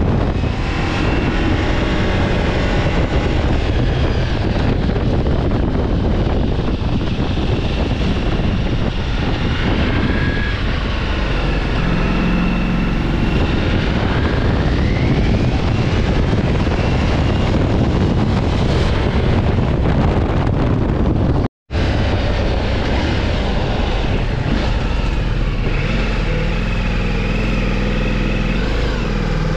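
Motorcycle riding at speed, engine note rising and falling under heavy wind rush on the microphone. The sound cuts out completely for a moment about two-thirds of the way through.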